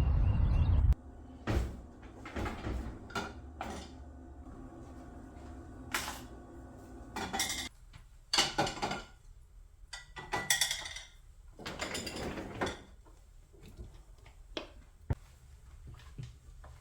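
Outdoor ambience with birds cuts off about a second in. Household handling sounds follow: scattered knocks, clicks and rustles of things being moved, opened and set down, busiest around the middle.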